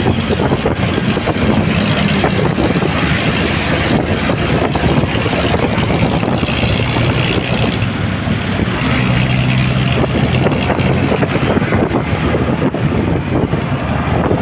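Motorcycle riding in traffic: the engine runs steadily under a constant rush of wind on the microphone, and its low hum shifts in pitch a little as the speed changes.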